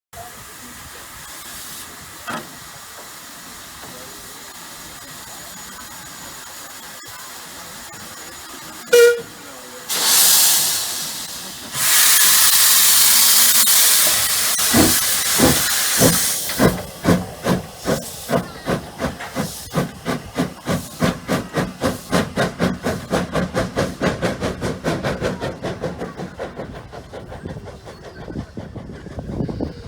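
Hunslet 0-6-0ST saddle tank steam locomotive starting away: a short whistle blast, then loud bursts of hissing steam, then exhaust chuffs that start slow and quicken steadily as the engine gathers speed.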